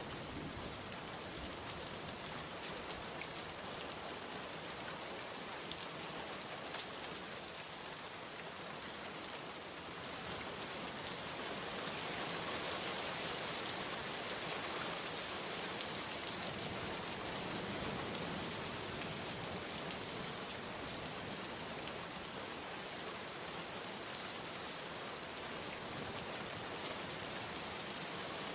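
Steady rain falling on a surface, a dense even hiss with scattered drop ticks. It gets a little heavier about ten seconds in.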